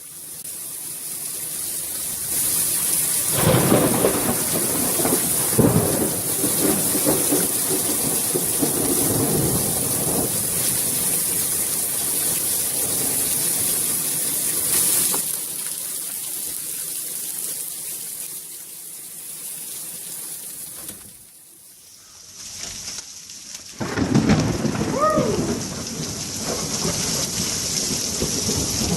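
Heavy rain pouring down with repeated rolls of thunder rumbling through it. The sound drops away briefly a little past twenty seconds in, then thunder rumbles again over the rain.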